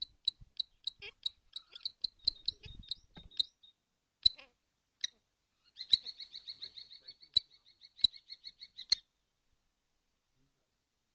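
Kestrel calling: a run of short, high, evenly spaced notes, then in the second half a fast trilling series of rapid repeated notes, with several sharp knocks among the calls. It falls silent about nine seconds in.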